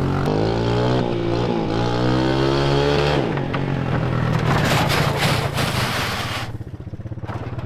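Three-wheeler's engine revving up and down, then running hard and steady for a few seconds before dropping back quieter near the end.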